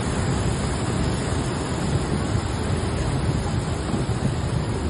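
Steady rushing noise of a flooded, fast-flowing river, with wind buffeting the microphone.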